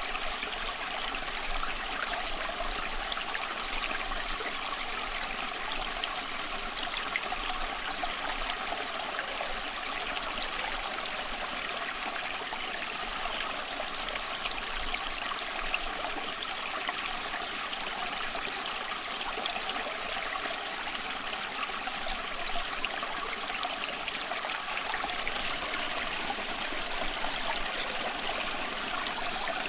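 Water of a small stream running and trickling over rocks, a steady rushing with fine bubbling detail.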